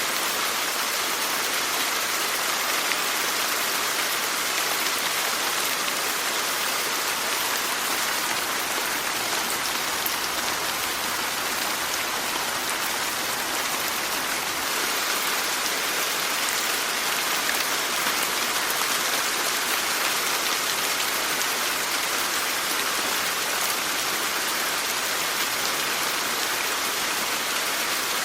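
Steady rain falling, a dense even hiss of many drops with no single strike standing out.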